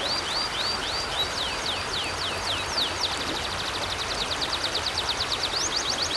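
A songbird singing over the steady rush of river water: a run of slurred whistled notes, a few a second, changes about three seconds in to a fast, rapid trill of repeated high notes.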